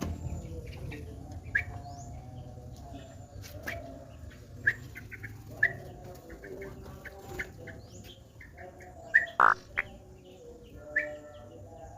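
Yellow-vented bulbuls chirping: many short, scattered chirps, with one louder, harsher call about nine and a half seconds in.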